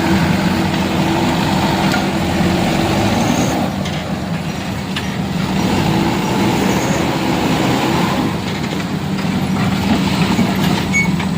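A heavy truck's engine running steadily with a low droning hum, a little quieter for a few seconds about a third of the way in.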